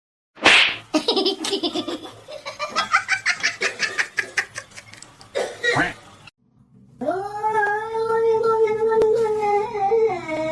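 Someone laughing hard in quick rhythmic bursts, followed after a brief pause by a long wailing call held at one steady pitch for about three seconds, dipping slightly at the end.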